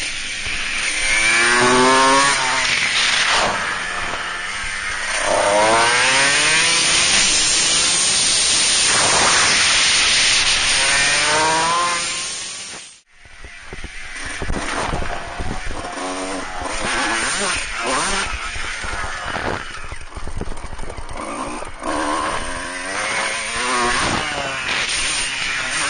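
A 125 cc supermoto engine heard from on board, revving up again and again in rising sweeps of pitch as it accelerates through the gears. About halfway through, the sound cuts out suddenly. It then comes back choppier, the throttle opening and closing in short bursts.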